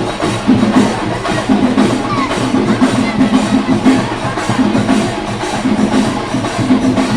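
Kerala temple percussion: chenda drums beaten in a fast, dense, continuous rhythm, with bright metallic strokes above the drums.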